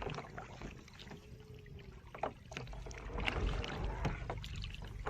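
Water splashing around kayaks being paddled, with scattered short knocks and clicks. The splashing grows louder about halfway through.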